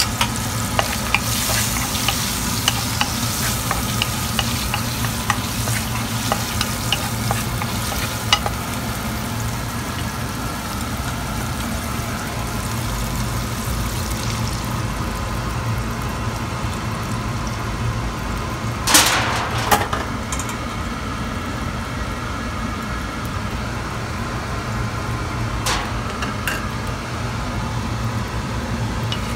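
Shrimp frying in hot oil in a pan: a steady sizzle with frequent crackles and pops of spitting oil during the first eight seconds or so, then a smoother sizzle once beaten egg is poured over them. A sudden louder rush lasting about a second comes about two-thirds of the way through, over a steady low hum.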